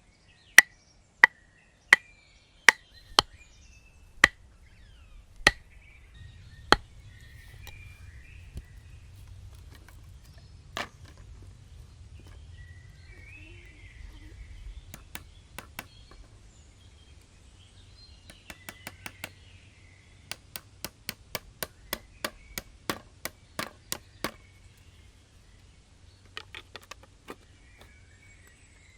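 Wood being chopped with sharp blows, about one a second at first, then quicker runs of lighter strokes in the second half. Birds chirp faintly between the blows.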